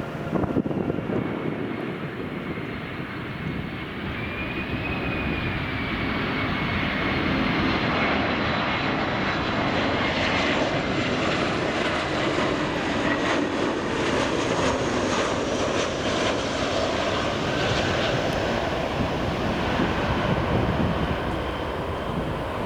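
Large jet airliner's engines: a steady rush with a faint high whine, growing louder over the first few seconds, holding, then easing slightly near the end.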